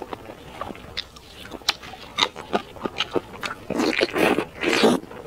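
Close-miked eating of saucy braised meat on the bone: scattered wet chewing clicks and lip smacks, then louder, longer wet bites as meat is torn off the bone about four seconds in.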